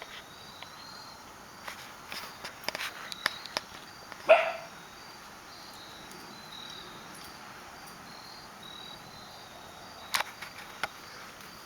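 Crickets chirping steadily, with scattered light clicks and taps and one short puppy bark about four seconds in.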